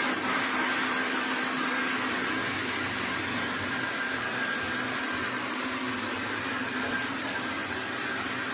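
iRobot Roomba Plus 405 Combo robot vacuum running: a steady whirring hiss with a faint high whine and a low hum underneath.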